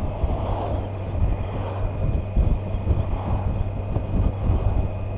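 Kawasaki Versys 1000 motorcycle's inline-four engine running steadily while riding, under a continuous rush of road and wind noise.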